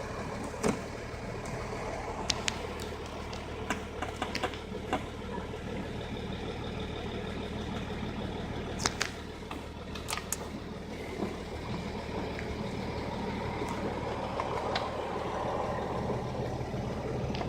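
Audi 3.0 TDI V6 diesel engine idling steadily, with a few sharp clicks scattered over it.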